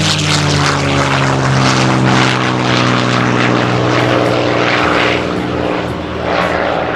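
P-51D Mustang's Packard Merlin V-12 piston engine running loud on a flyby, its pitch falling slowly as it passes.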